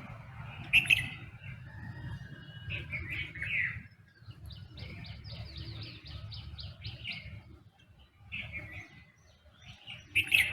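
Several birds chirping and calling over one another, with a sharp, loud call about a second in and another near the end, and a quick run of repeated high notes, about five a second, through the middle. A low steady rumble sits underneath.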